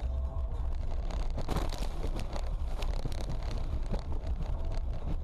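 Low road and engine rumble of a moving car picked up by a dash camera, with wind buffeting the microphone and a few faint clicks and knocks between about a second and a half and four seconds in.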